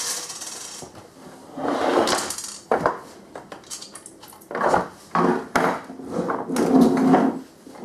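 Irregular knocks, clatter and scraping from handling the newly finished wheeled subwoofer platform, in three bursts.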